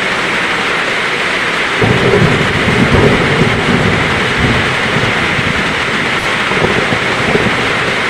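Heavy rain falling steadily, with a roll of thunder that rumbles in about two seconds in and fades away over the next few seconds.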